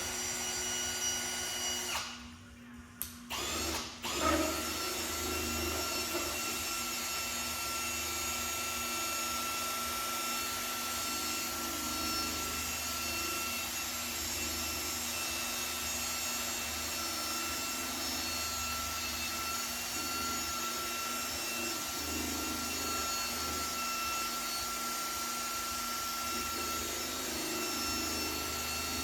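A small electric power tool runs steadily, cutting out briefly about two seconds in and again just after.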